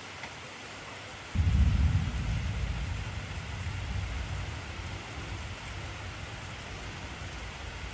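Steady heavy rain hissing. About a second in, a sudden low rumble of thunder breaks in, loudest at first, then slowly fades under the rain.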